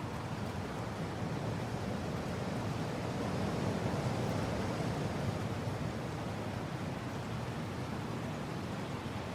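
Strong wind blowing as a steady, low rush, swelling a little in the middle and easing again.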